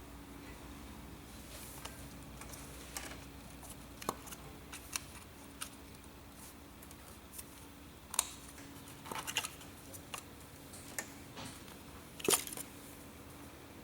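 Scattered light clicks and metallic clinks of small parts or hand tools being handled, over a faint steady hum.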